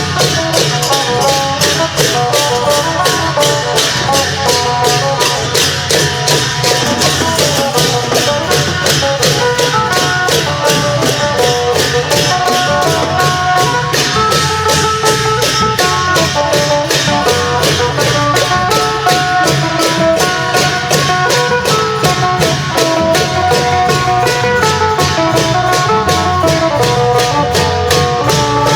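Isan klong yao long-drum band playing: a fast, steady beat of long drums and small cymbals under a plucked phin lute melody.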